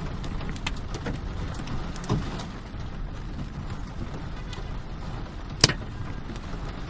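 Hailstorm: a steady hiss of falling rain and hail with scattered sharp hailstone hits, one much louder crack about five and a half seconds in.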